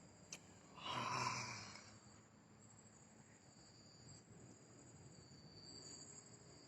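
Night crickets or other insects chirring steadily at a high pitch. A small click comes near the start, then a louder breathy rush, like a sigh, lasting about a second.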